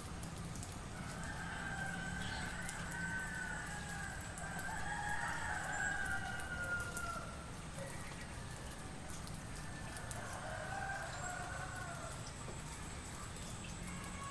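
Roosters crowing: overlapping crows fill the first half, then one fainter crow comes about ten seconds in.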